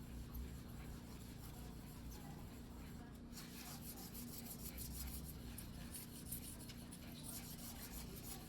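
A single-bevel sashimi knife blade being rubbed back and forth by hand on a whetstone, a faint run of scraping strokes. The strokes come thinly at first, then thicker and denser from about three seconds in.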